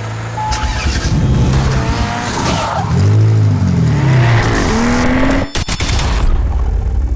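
Car engines revving, heard as several overlapping rises and falls in pitch, with a sharp crackle about five and a half seconds in.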